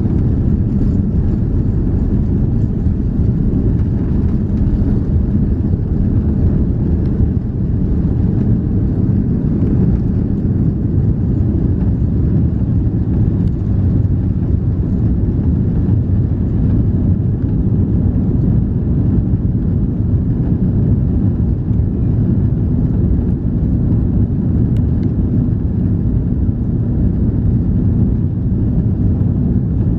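Cabin noise inside an Airbus A340-300: a steady, deep rumble of its four CFM56 turbofans and airflow, with a faint low hum running through it and no change in level.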